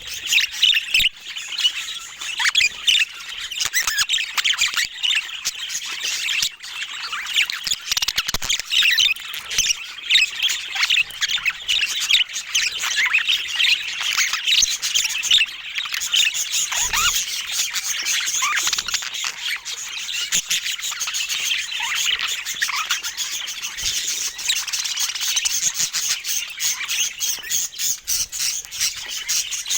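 Pet budgerigars chattering and warbling: a steady, dense stream of quick chirps and squawks.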